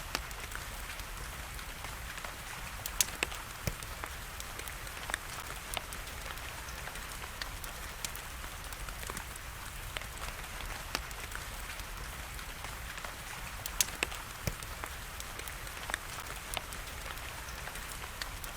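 Wood fire crackling, with irregular sharp pops and snaps (a couple of them louder), over a steady hiss of rain.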